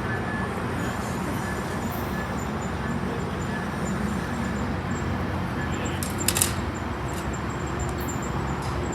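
Metrolink passenger train rolling past, a steady rumble of wheels on rail with a low hum underneath. There is a single sharp clack about six seconds in.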